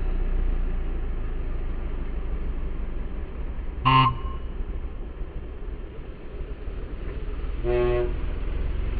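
Two short toots of a vehicle horn, one about four seconds in and a slightly longer one near eight seconds, over a steady low rumble of engine and road noise.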